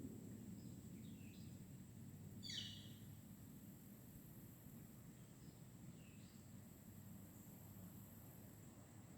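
Faint woodland ambience: a steady high insect drone, with a few short bird chirps. The clearest chirp is a quick falling call about two and a half seconds in.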